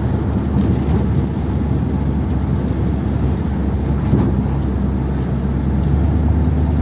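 1957 Ford Thunderbird's V8 engine running steadily while the car cruises along the road in top gear, with tyre and road noise underneath; the engine is running well on two barrels of its four-barrel carburettor.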